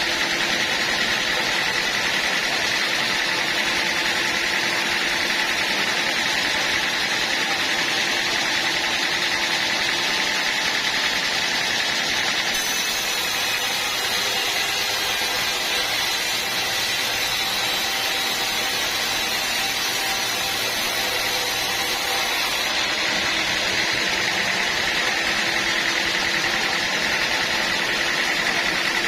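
Sawmill running steadily, a constant machine drone with a fixed whine; a brighter hiss joins for about ten seconds in the middle, as if the saw is cutting into a teak log.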